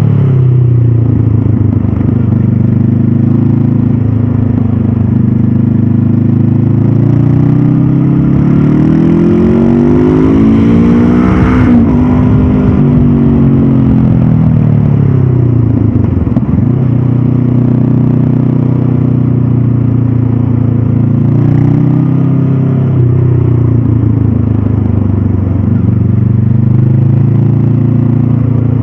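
Stock Honda CB500F's 471 cc parallel-twin engine and exhaust under way, the revs rising and falling with the throttle. The pitch climbs steadily to a peak about twelve seconds in, drops off sharply, sinks lower for a few seconds, then rises again and holds fairly steady.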